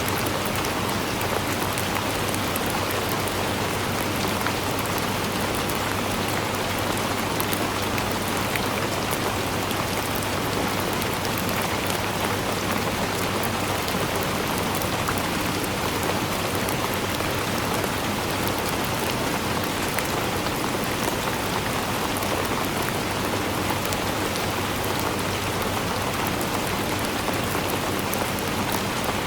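Steady, dense rainfall, with many small drop ticks pattering on surfaces and no change in strength.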